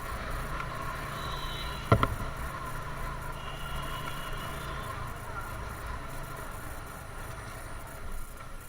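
Single-cylinder engine of a TVS Apache RTR 160 motorcycle running steadily under way, with road noise. A single sharp knock about two seconds in.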